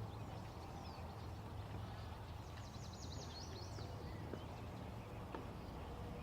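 Steady low wind rumble, with a small songbird singing a quick run of high notes about three seconds in.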